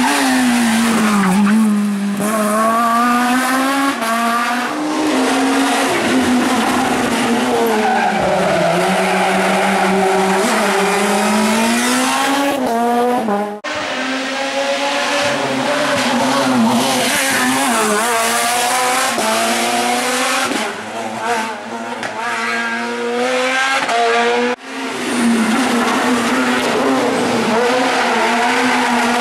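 Rally cars on a closed special stage, engines revving hard, their pitch climbing and dropping again and again as the drivers go through the gears and on and off the throttle. The sound cuts abruptly twice, joining three separate passes.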